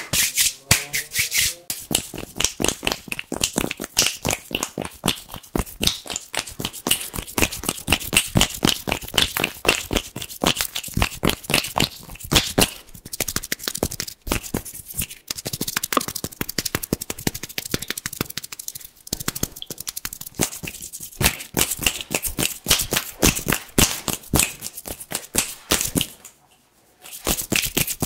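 Fast, crisp hand sounds close to the microphone: hands rubbing and tapping in quick, irregular crackling clicks, with a brief pause about two seconds before the end.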